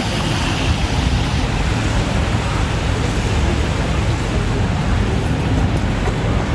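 Street ambience of passing road traffic, with wind buffeting the microphone as a steady low rumble.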